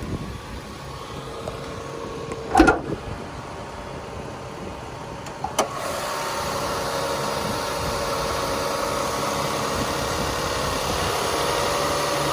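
Toyota Sienna's 3MZ-FE 3.3-litre V6 idling steadily, with a loud clunk about two and a half seconds in and a sharp click a few seconds later as the hood is worked open. After that the engine sounds louder and steady.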